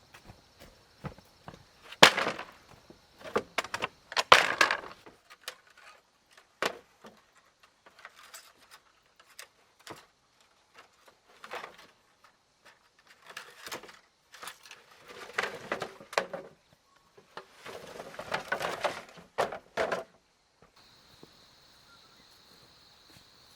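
Irregular knocks and cracks with bursts of rustling, as of hands working with material, loudest about two seconds in, around four seconds and again between fifteen and twenty seconds. A steady high insect drone fills the quieter stretches at the start and near the end.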